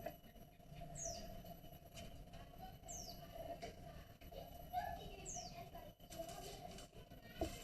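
A small bird calling in the background: three short, high chirps, each sweeping downward, about two seconds apart. A single sharp knock comes near the end.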